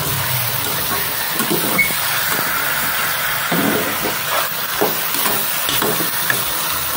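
Chicken pieces sizzling as they are sautéed in a stainless steel pot over ginger, garlic and onion. The sizzle is a loud, steady hiss, and a metal spatula scrapes and knocks against the pot as the pieces are stirred.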